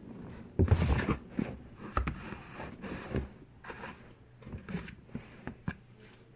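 Small plastic fidget toys being handled and moved about: a run of short, irregular clicks, taps and rustles, loudest just under a second in.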